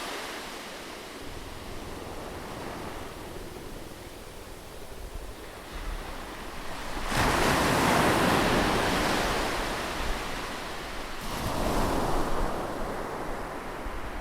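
Ocean surf breaking on a beach: a steady wash of waves, with one louder wave crashing about halfway through and a smaller one near the end.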